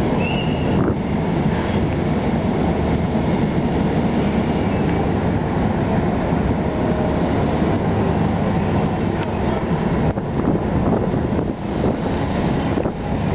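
Steady low rumble of trains at a large railway station.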